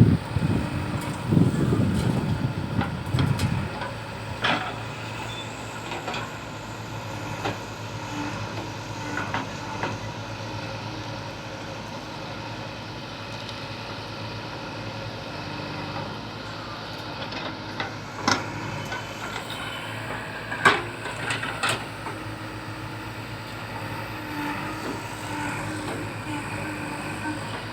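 Heavy diesel machinery, a backhoe loader or truck, running steadily, louder for the first few seconds and then settling to a steady hum, with a few sharp metallic knocks.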